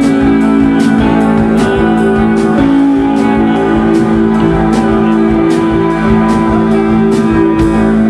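A band playing loudly: held guitar chords over a steady drum beat with regular cymbal hits.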